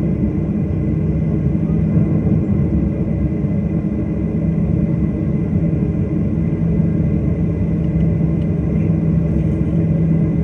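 Steady drone of an airliner's jet engines heard inside the passenger cabin, a continuous low rumble with a hum and a faint high whine.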